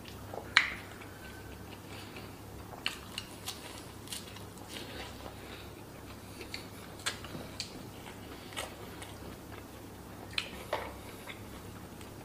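A person chewing a mouthful of food by hand-eating, with soft wet mouth smacks and clicks scattered through and one louder smack about half a second in.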